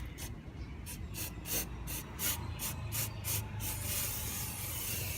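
CRC mass air flow sensor cleaner sprayed from an aerosol can, first in a run of short hissing squirts, then held in one steady spray near the end.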